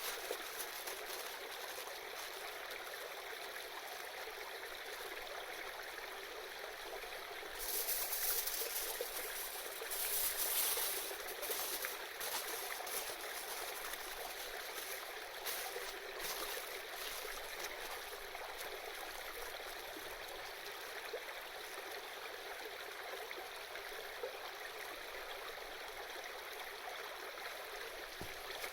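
Shallow river babbling steadily, with two louder hissing surges about eight and ten seconds in.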